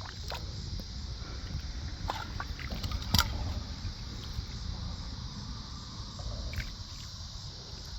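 Footsteps and movement through shallow creek water and mud, with low rumbling handling noise and a few sharp clicks, the loudest about three seconds in. Insects buzz steadily behind.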